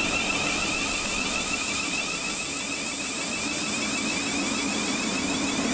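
Electric multiple unit train at the platform, giving a steady whine of several held tones over a hiss.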